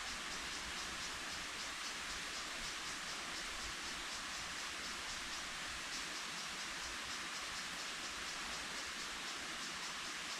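Steady rainforest hiss of an insect chorus, with a fast, even pulsing high in pitch.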